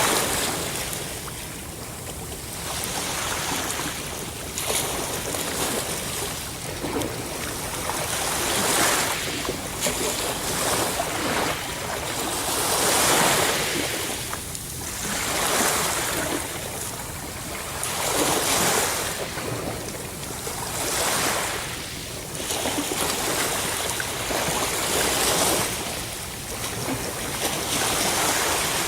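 Ocean waves breaking and washing on the shore, the surf rising and falling in repeated swells every two to three seconds.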